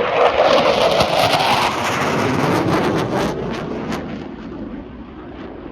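CF-18 Hornet fighter jet passing, its engine noise loud and crackling at first, then fading steadily as it flies away.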